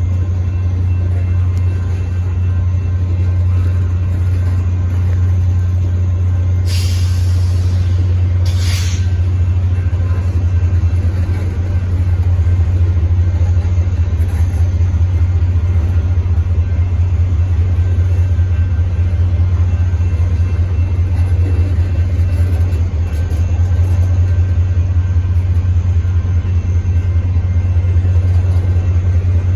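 Freight cars of a Union Pacific manifest train rolling past close by, a loud steady low rumble of steel wheels on rail. Two short hisses come about seven and nine seconds in.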